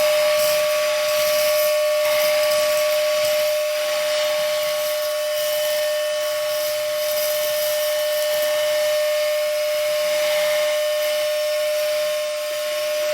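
Rossi Engraving cordless handheld car vacuum running steadily: a steady motor whine over the hiss of rushing air.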